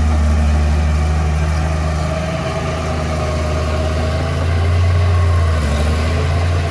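Diesel engine of heavy earthmoving machinery running with a steady low drone, easing off about two seconds in and picking up again around five seconds.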